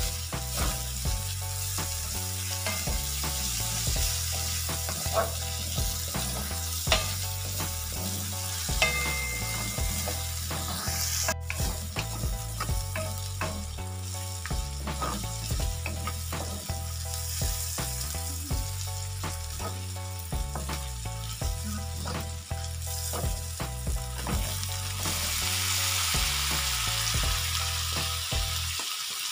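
Pork belly, garlic, onion and dried fish sizzling in hot oil in a stainless steel wok, stirred with a wooden spatula that knocks and scrapes now and then. The sizzle grows brighter near the end. Background music plays underneath.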